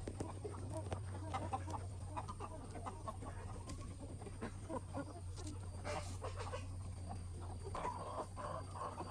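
A flock of capons clucking, with many short overlapping calls, over a steady low hum.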